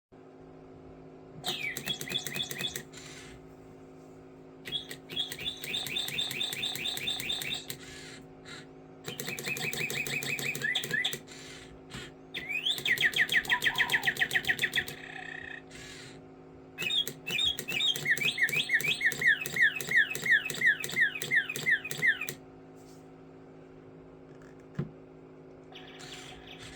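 Bird song in about five bursts of fast, evenly repeated chirps and trills with short pauses between, over a steady low hum.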